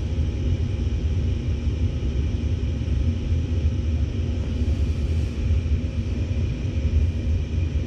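Gas furnace burners lit and burning steadily, a constant low rumble. The burners stay on instead of cutting out a few seconds after ignition, because the dirty flame sensor has been cleaned.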